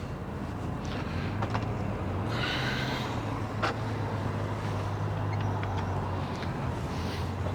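A steady low mechanical hum, like an engine running at a distance, with a brief higher-pitched sound about two and a half seconds in and a single click about a second later.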